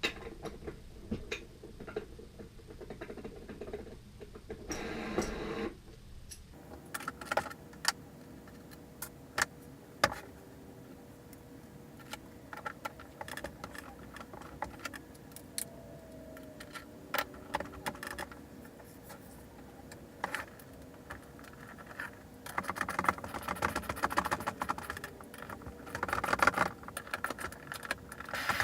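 Metal skateboard hardware being handled and fitted: scattered sharp clicks, taps and jingling of washers, axle nuts and tools against the trucks and wheels, with a brief scraping rustle about five seconds in and busier rattling near the end.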